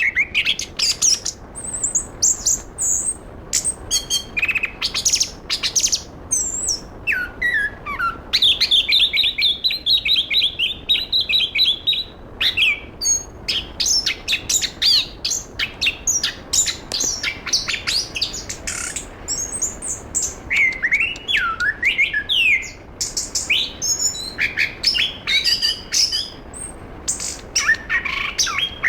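Chestnut-capped thrush (anis kembang) singing a long, unbroken, varied song of fast whistled notes, glides and chatter, with a quick run of rapidly repeated notes about a third of the way in.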